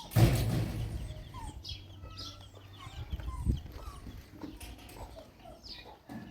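Birds calling in short chirps and clucks. A sudden loud noisy burst comes right at the start and fades over about a second, and a single knock comes about three and a half seconds in.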